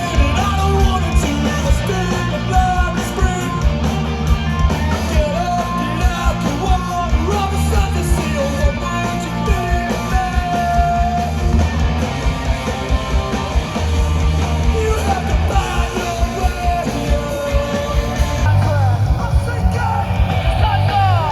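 Loud live rock band with sung and shouted vocals over guitars, bass and drums.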